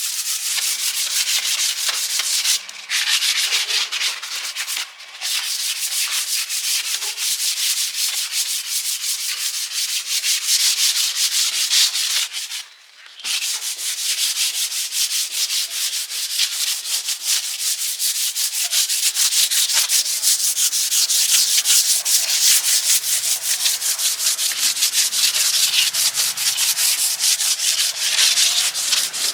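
Sanding: a steady, mostly high-pitched abrasive scrape made of many rapid fine strokes, stopping briefly three times, the longest gap a little before halfway.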